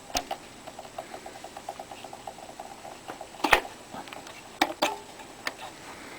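Small wheel on a vintage Hoover Convertible upright vacuum spinning freely on its freshly cleaned and oiled pin, ticking rapidly, about seven ticks a second, dying away after about three seconds. A few sharp knocks follow as the vacuum is handled.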